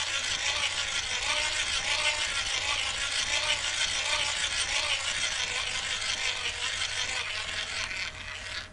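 A buggy moving along with a steady hiss and a rhythmic squeak that rises and falls about one and a half times a second, the squeak of a dry, unoiled buggy. It stops suddenly near the end.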